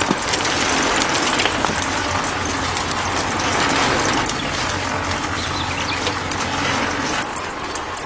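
Miniature sand-and-stone separating machine running: a steady hiss and rattle of sand and small stones being shaken through it, over a low motor hum.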